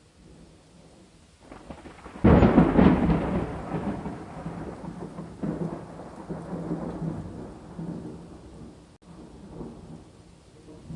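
A thunderclap cracks sharply about two seconds in, then rolls on as a rumble that fades over the next several seconds. A faint hiss of rain runs underneath.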